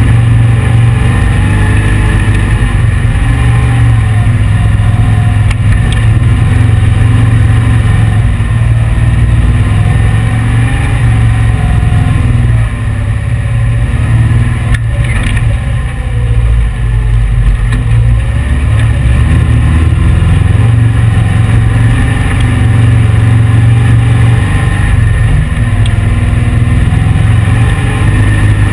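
1835 cc air-cooled VW flat-four engine of a dune buggy running steadily under throttle while it drives over sand, with the engine dropping off briefly about halfway through before picking up again.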